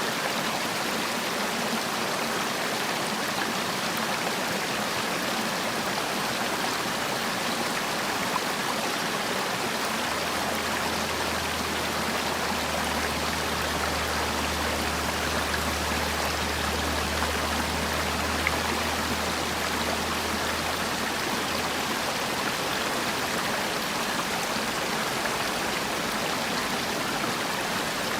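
Mountain valley stream flowing over rocks, a steady even rush of water. A low rumble joins about ten seconds in and fades out around twenty-one seconds.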